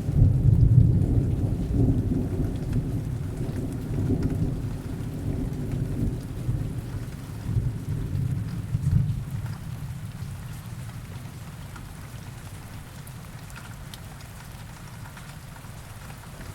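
Heavy rain with a long roll of distant thunder. The rumble is loudest at the start and dies away over about ten seconds, leaving the rain on its own.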